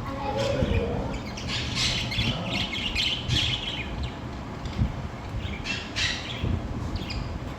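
Budgerigars squawking and chattering in scratchy bursts, the busiest stretch in the first half and another short burst about six seconds in, over a steady low rumble.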